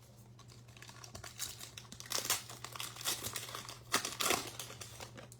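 A plastic trading-card pack wrapper being torn open and crinkled, in crackling bursts that are loudest about two seconds in and again about four seconds in.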